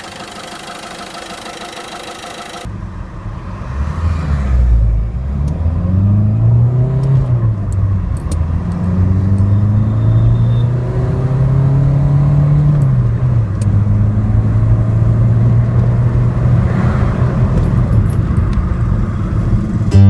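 Ford EcoSport's engine accelerating hard from a standstill, starting about three seconds in. Its note rises repeatedly and falls back at each upshift, then settles into a steady drone at speed, under low road and wind rumble.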